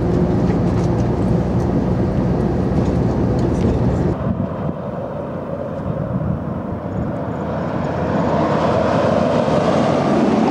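Tour bus running, heard from inside the cabin: a steady engine and road rumble that drops back about four seconds in and builds up again near the end.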